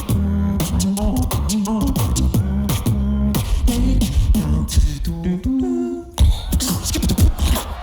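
Tag-team beatbox duo performing: deep held bass notes under sharp kick and snare hits, with a sung melody gliding over the beat. The beat drops out briefly a little after six seconds in, then comes back.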